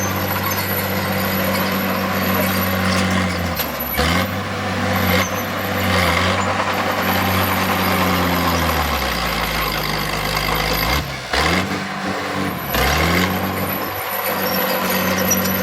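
Heavy diesel engine of earthmoving machinery running under load. Its pitch drops and climbs again several times as it is throttled down and up, with a long low dip about two-thirds of the way through. A few short noisy bursts are heard over it.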